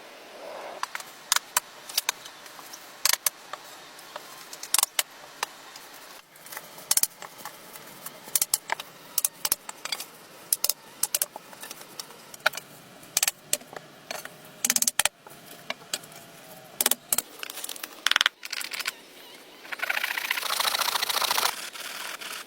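Irregular sharp clicks and knocks, with a longer burst of scraping or rustling noise near the end.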